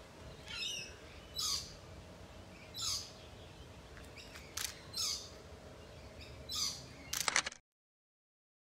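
Short, high bird chirps, one every second or so, over quiet outdoor background. Near the end comes a quick run of clicks, then the sound cuts off suddenly into dead silence.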